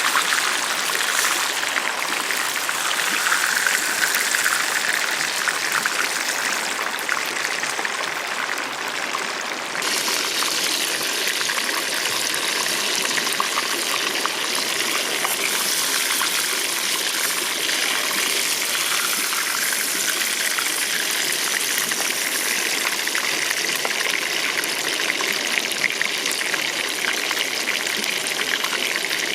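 River water flowing, a steady rushing hiss that gets brighter about ten seconds in.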